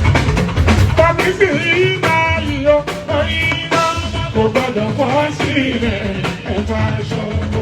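Live Fuji band music: dense drums and percussion with a melodic line running over them from about a second in.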